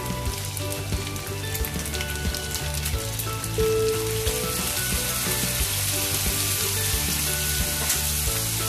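Sliced beef sizzling in a hot non-stick frying pan. The sizzle grows louder about halfway through as a spoonful of soy sauce goes in. Background music plays along.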